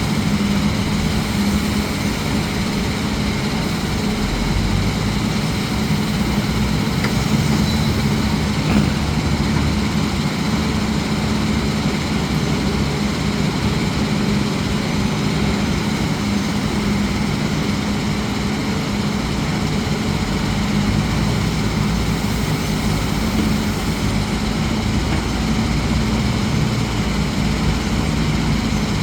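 Heavy diesel engine of a construction machine running steadily at an even pitch and level, with a low, constant hum.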